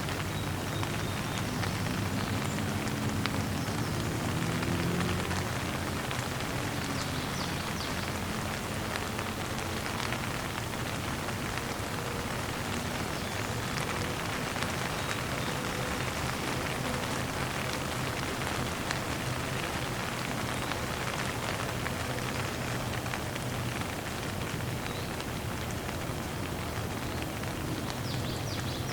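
Steady rain falling and pattering on the ground, a continuous even hiss of drops.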